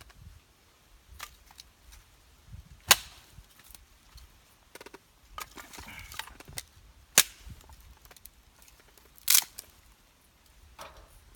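Firewood being split: sharp wooden cracks and knocks, three loud strikes a few seconds apart with smaller taps between.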